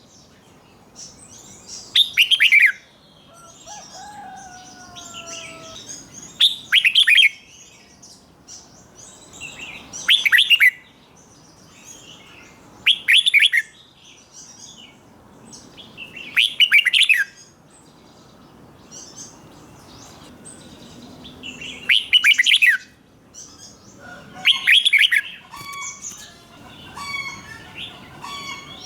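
Red-whiskered bulbul singing: loud, short phrases about every three to four seconds, eight in all, with softer chirps between them.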